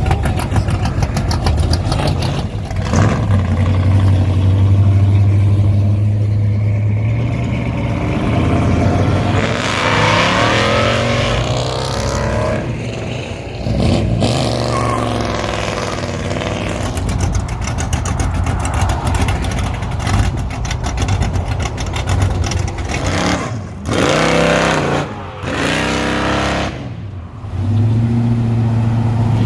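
Classic V8 muscle cars accelerating away one after another, engines revving with rising pitch. The sound breaks off abruptly several times.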